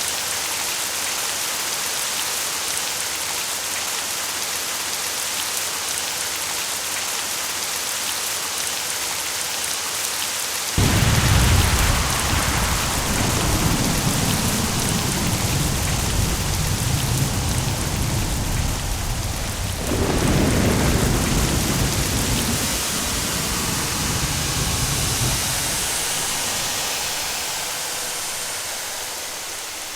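Steady rain with thunder. A sudden clap about a third of the way in rolls into a long, deep rumble, which swells again about two-thirds of the way through and fades away, leaving the rain.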